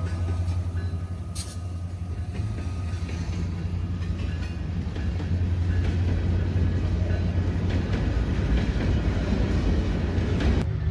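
Diesel freight train passing: a steady low engine drone under the rumble of wheels on rails, which grows louder in the second half and cuts off suddenly near the end.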